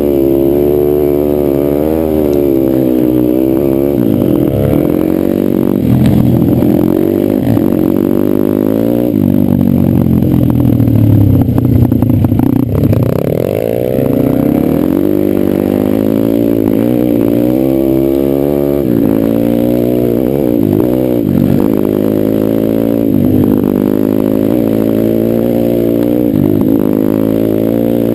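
Pit bike engine on an off-road ride, revving up and falling back over and over as the throttle opens and closes, with clattering over rough ground that is busiest about halfway through.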